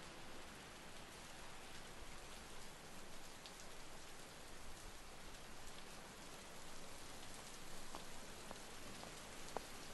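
Steady, soft hiss of outdoor ambience that sounds like light rain, with a few faint ticks.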